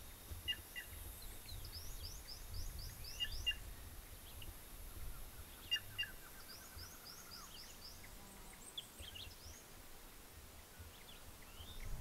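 Wild songbirds in dry Caatinga scrub: two fast runs of high sweeping notes, about four a second, with short paired whistles and a lower, slightly falling series of notes, over a steady low rumble.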